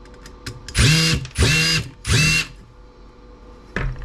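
Power drill-driver running in three short bursts, each spinning up quickly to a steady whine, as screws are backed out of the TV's case or chassis. Small clicks of handling between the bursts.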